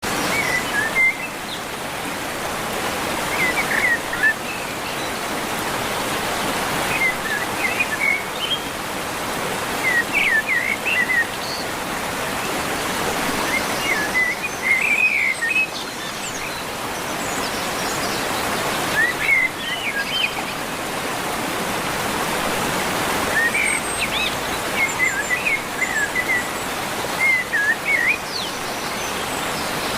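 Steady rushing of a waterfall, with a bird chirping over it in short bright calls every few seconds.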